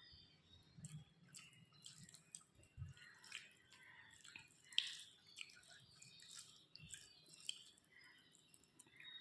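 Close-miked eating sounds of a meal of rice and fish curry: soft wet chewing, lip smacks and scattered clicks, with one sharper smack a little under five seconds in.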